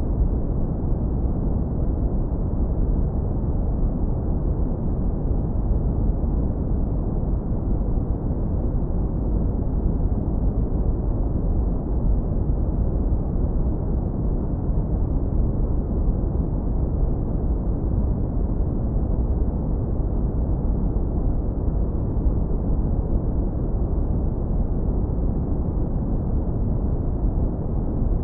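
Steady deep brown noise, heavily low-pass filtered so that only a smooth low rumble remains and nothing high is left. Continuous and even, with no changes.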